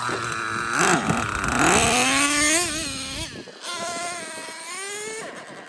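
The small nitro glow engine of a Traxxas Revo 3.3 RC truck revving up and down as the truck drives. Its pitch climbs and wavers over the first couple of seconds, falls and fades a little after three seconds, then rises again more quietly near the end. The engine is not running well.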